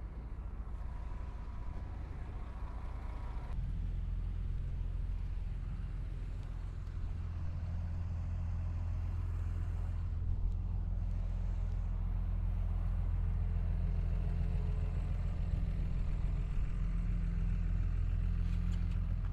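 Bulldozer's diesel engine running steadily with a deep hum. It steps up louder about three and a half seconds in and holds there.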